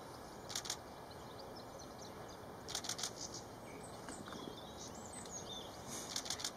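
Steady outdoor background noise with three short bursts of quick, dry, high-pitched bird calls: about half a second in, around three seconds in, and near the end. Fainter chirps come between them.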